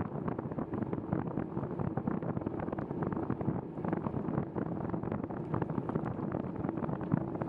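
Steady crackling hiss of a bicycle riding on wet pavement in the rain, with wind buffeting the microphone.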